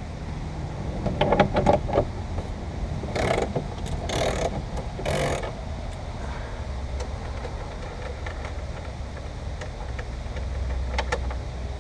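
A 19 mm socket wrench working a roof-glass mounting bolt loose: a few metal clicks, then three short rasping bursts about a second apart, over a steady low hum.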